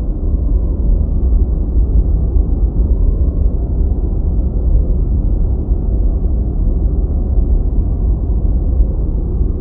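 Steady deep white noise, heavy in the bass and dull, with almost nothing above about 2 kHz: an even, unbroken low rush.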